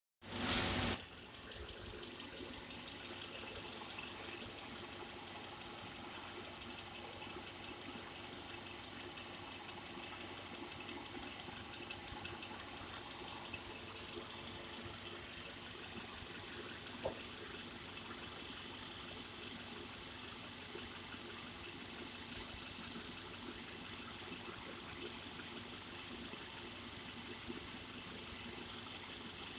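2010 Subaru Liberty's 2.5-litre flat-four petrol engine starting with a brief loud burst, then idling steadily with a fast, even ticking. About halfway through it grows a little louder with an even pulsing.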